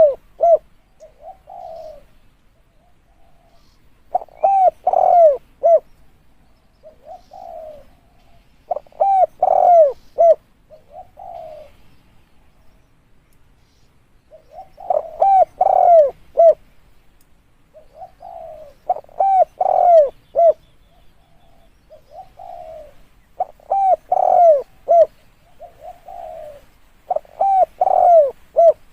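Spotted dove cooing in repeated phrases of several short arching coos. A louder phrase comes about every four to five seconds, with softer coos in between.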